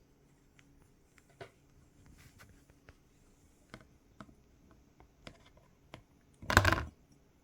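Quaker parrot nibbling a piece of carrot: scattered soft clicks and taps, then one loud, short crunch or knock about six and a half seconds in.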